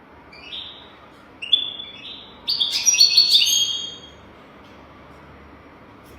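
European goldfinch singing: a run of quick, high twittering phrases that grows loudest about two and a half seconds in and stops around four seconds in.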